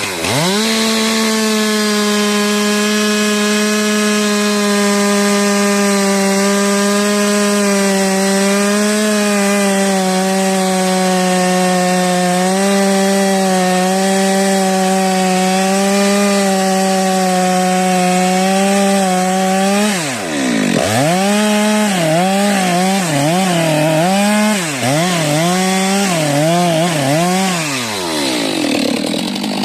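STIHL MS 462 two-stroke chainsaw held at high revs and cutting wood, steady for about twenty seconds. The revs then drop and it is revved up and down over and over before falling away near the end.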